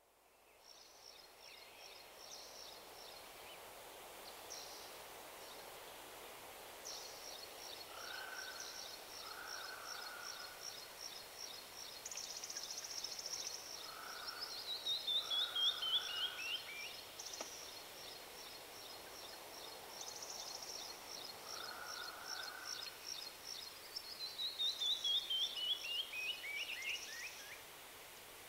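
Songbirds singing: repeated high chirps and trills, and twice a run of notes that falls in pitch and speeds up, the loudest part each time.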